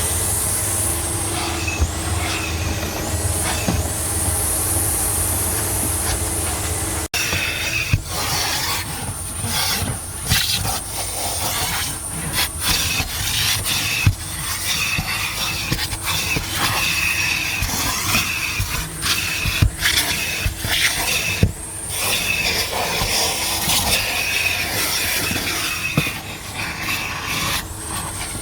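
Self-service car wash vacuum running, with a steady rushing and a high whine. A sharp break about seven seconds in; after that the rushing rises and falls unevenly as the nozzle is worked over the car's interior.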